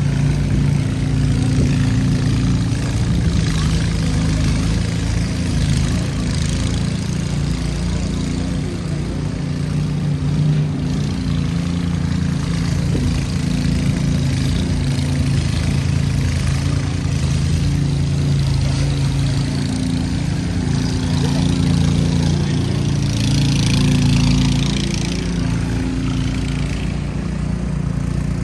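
A motor engine running steadily at idle, a constant low hum. A hissing rush swells and fades about three quarters of the way through.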